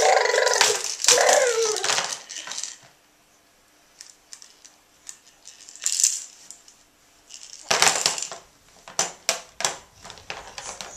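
A baby vocalising loudly for about two seconds, then a string of sharp clicks and clattering knocks of small hard objects against a hard surface.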